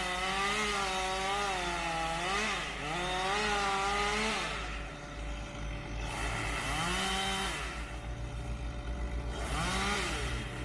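Chainsaw cutting during tree removal, its engine pitch sagging under load and rising again in long revving bursts. After about four seconds it drops back, with two shorter bursts later.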